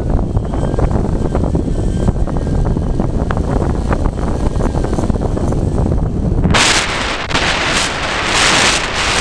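Strong gusty wind buffeting the microphone in a continuous low rumble; about two-thirds of the way in a louder rushing hiss joins it as a gust comes through.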